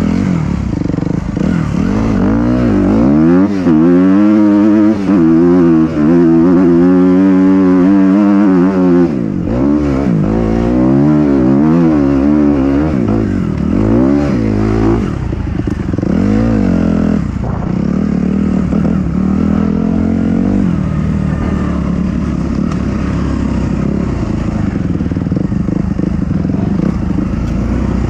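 Dirt bike engine under repeated throttle while riding rough trail, its pitch climbing and dropping about once a second for the first half. After about fifteen seconds it runs lower and steadier.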